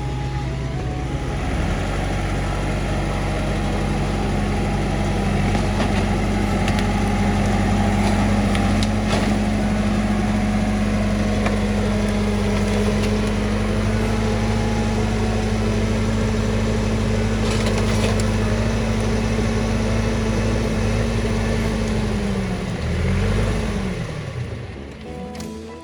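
Massey Ferguson tractor's diesel engine running at steady raised revs, with a few faint knocks. Near the end the revs drop, rise briefly and fall away.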